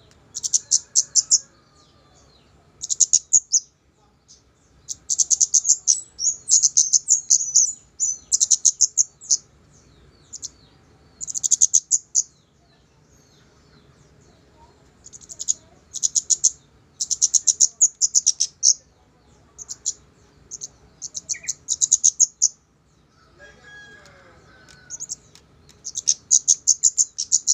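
Kemade bird singing a lure song: bouts of rapid, high, rattling chirps, each lasting up to a couple of seconds, repeated with short pauses between.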